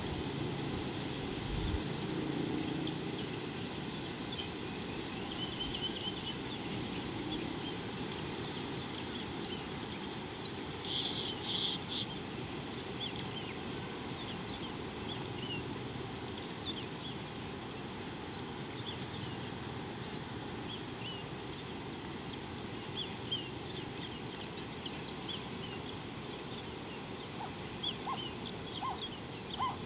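Outdoor bush ambience: many small birds chirping with short high calls scattered throughout, and one louder call about eleven seconds in, over a steady background hiss.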